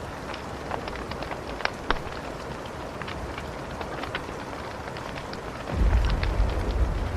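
Wood fire crackling, with scattered sharp pops and snaps over a steady hiss. About six seconds in, a deep low rumble comes in and the sound gets louder.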